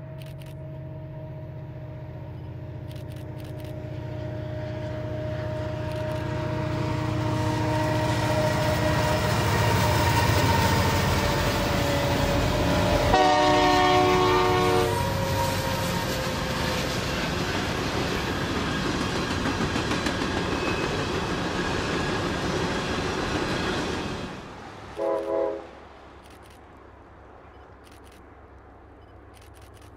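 Diesel-hauled train approaching and passing, its low engine rumble building, with the locomotive's air horn sounding a chord for about two seconds at the loudest point. The train noise cuts off abruptly, followed by two short horn toots.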